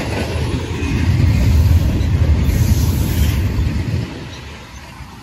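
Train rolling past on the tracks: a heavy low rumble that swells, then dies away quickly near the end as the train moves off.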